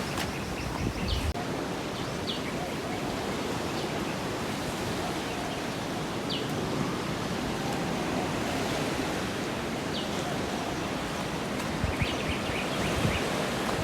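Steady rushing outdoor noise, even throughout, with a few faint short high-pitched chirps or clicks scattered through it.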